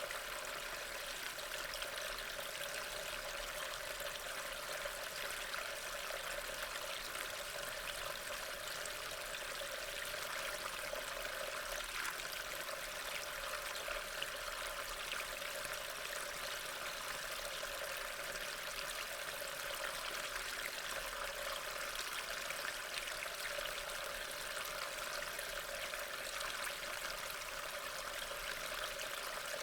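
Steady rain, a continuous even hiss of falling water with fine drop ticks through it.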